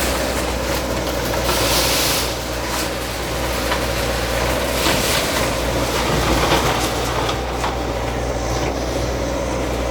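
Bulldozer's diesel engine running steadily, with scattered knocks and a brief rush of noise about two seconds in.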